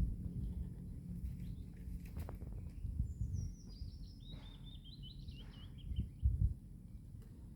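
A songbird sings one short phrase a few seconds in, starting high and dropping into a quick warble. Underneath is a low rumble, with a couple of dull thumps near the end.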